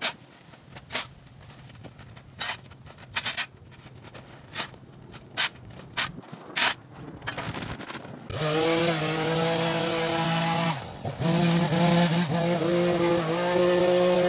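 A rake scraping over the ground in short, uneven strokes, then about eight seconds in a small gas engine starts up and runs steadily, most likely a leaf blower, dipping briefly about three seconds later.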